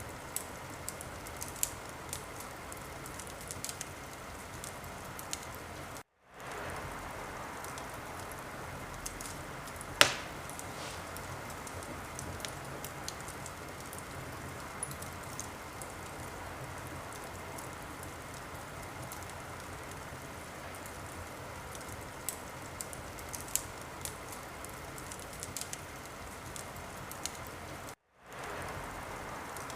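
Wood fire in a fireplace crackling steadily with scattered small pops over a soft hiss, and one sharp loud pop about ten seconds in. The sound cuts out completely for a moment twice, about six seconds in and near the end.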